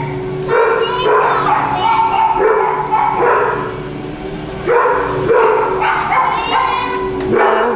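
Vacuum cleaner running steadily while a dog barks repeatedly over it, a short bark every second or so.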